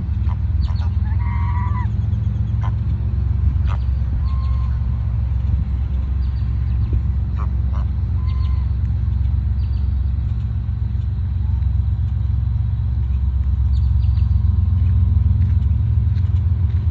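Waterfowl calling in a few short honks, the clearest about a second in, over a loud, steady low rumble.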